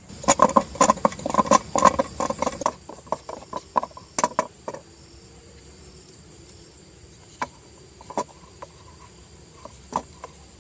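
A quick run of clattering knocks, hard objects striking each other several times a second, dies away after about four seconds. A few single knocks follow, spaced out, toward the end.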